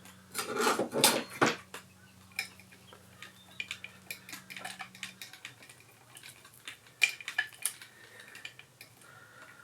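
Metal parts and hand tools clinking and clattering while the cam sprocket bolt and sprocket are taken off an engine: a quick cluster of clinks, then scattered single clicks and taps.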